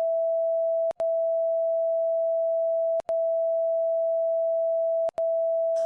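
Edited-in censor bleep: one steady, unwavering beep tone broken by three very short gaps about two seconds apart, masking the speech beneath it.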